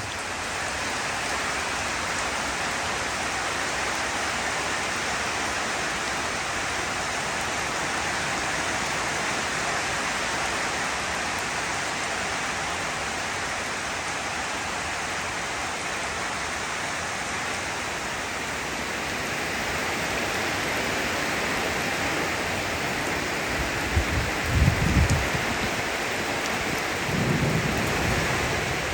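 Steady heavy rain falling, a dense even hiss, with two short low rumbles near the end.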